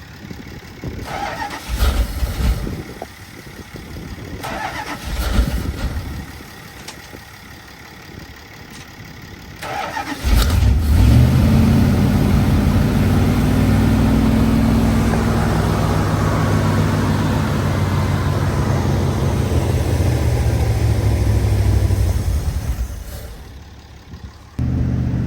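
First-generation Dodge pickup engine on a reluctant cold start: for about ten seconds it sputters unevenly without catching, then it fires and runs steadily at a raised speed. Near the end it briefly drops away, then runs again.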